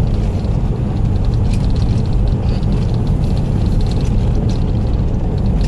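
Car interior road noise: a steady low drone of the engine and tyres while driving.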